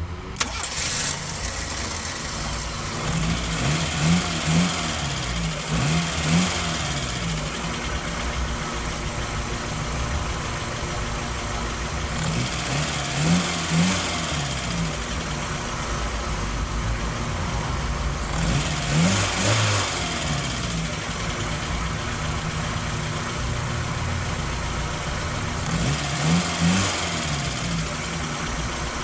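Toyota Corolla 2E four-cylinder engine idling, with short revs every several seconds where the pitch rises and falls back to idle.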